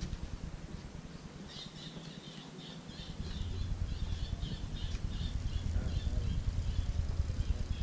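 A bird calling in a rapid series of short, squawky notes, about four a second for some four seconds, over a low rumble of wind on the microphone.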